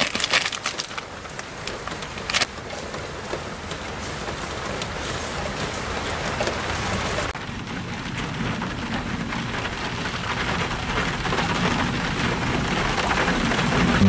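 Heavy rain falling steadily, with a few sharp drip taps in the first couple of seconds. About seven seconds in the rain sound changes abruptly, then grows gradually louder.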